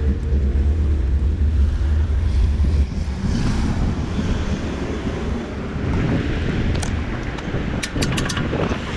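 Wind rumbling on the microphone while riding a bicycle, heaviest for the first three seconds, over steady road and traffic noise, with a few sharp clicks near the end.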